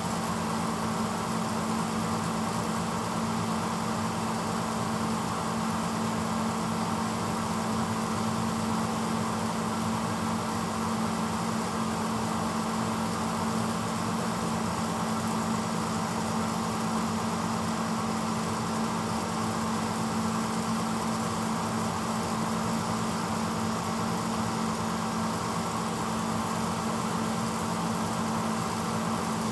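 1986 Hotpoint Potwasher dishwasher running steadily mid-cycle: a constant motor hum under an even rushing noise.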